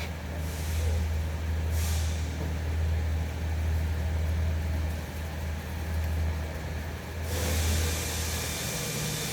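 A steady low mechanical hum, with a brief hiss about two seconds in and a continuous hiss that starts suddenly about seven seconds in.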